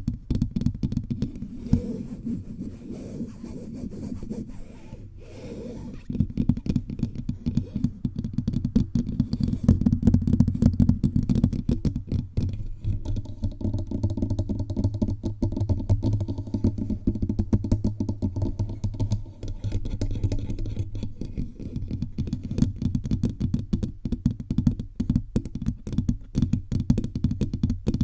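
Fingertips tapping and scratching rapidly all over a bare microphone, a dense run of deep, dull taps close on the mic.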